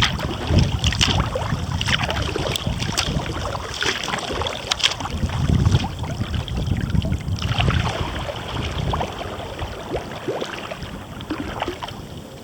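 Kayak paddling: irregular splashes and drips of water from the paddle blades, over a low rumble of wind on the microphone's fur windscreen that eases off after about eight seconds.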